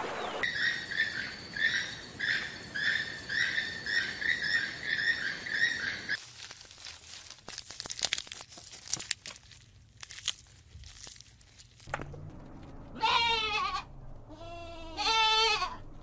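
A flock of flamingos calling, a short honk about twice a second, for the first six seconds. Then irregular crisp snaps of a giraffe cropping grass. Then a sheep bleats twice, each bleat long and wavering in pitch.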